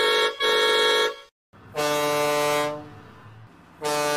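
Horn blasts. Two short, higher toots come first, then two longer, deeper horn blasts, the second starting near the end.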